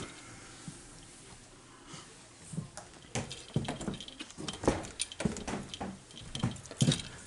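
Irregular knocks, clicks and footfalls of bags and gear being handled and carried while loading up. They start about two and a half seconds in and come thick and uneven after that.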